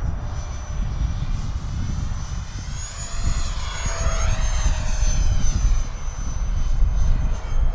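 Whine of a 50 mm electric ducted fan on a small RC foam jet in flight, rising in pitch about three seconds in and easing down slowly as the plane passes. Gusty wind buffets the microphone underneath.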